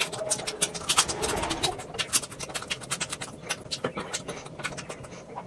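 Close-miked eating sounds: chewing and lip-smacking, with many quick, sharp mouth clicks and a denser burst about a second in.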